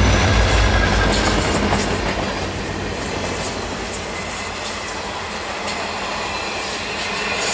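Train cars rolling past close by: a steady rush of steel wheels on rail with light clicking. A low locomotive engine sound fades out in the first second.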